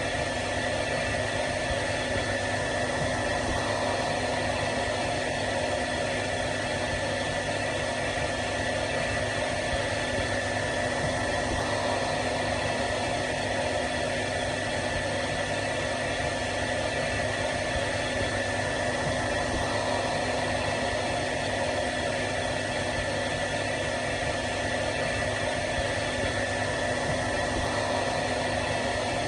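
Hair dryer running steadily: a continuous rush of air with a fixed motor hum and whine that never changes.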